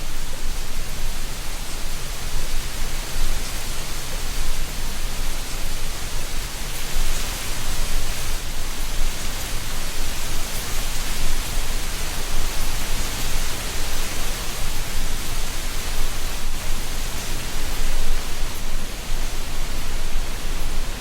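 Wind blowing through a tree canopy, rustling dry autumn leaves in a steady hiss that grows a little stronger through the middle.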